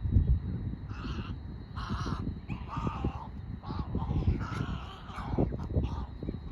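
A bird calling repeatedly, about six calls spaced roughly a second apart, over a steady low rumble.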